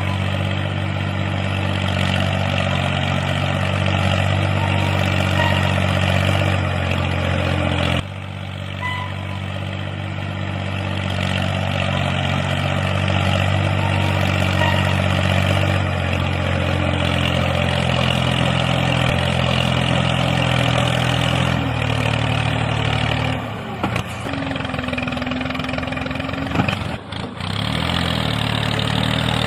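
Tractor engine idling steadily. The sound cuts off abruptly and picks up again a few times.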